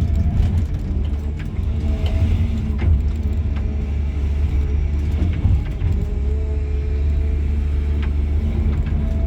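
Cat 323 GC excavator's diesel engine running steadily with a deep rumble, under a higher whine that wavers in pitch. A few light clicks and knocks come through.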